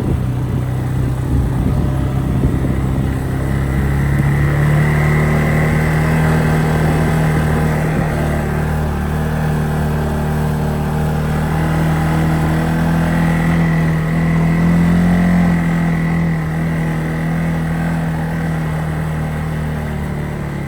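A vehicle engine running steadily under way, its pitch rising slightly a few seconds in and again about two-thirds of the way through as it picks up speed.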